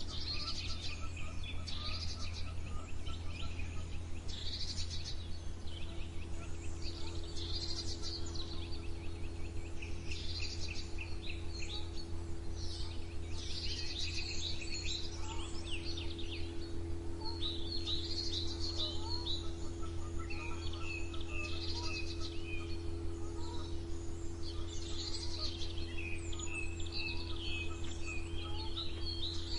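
Several songbirds singing and chirping in overlapping phrases of trills and short calls, over a steady low hum.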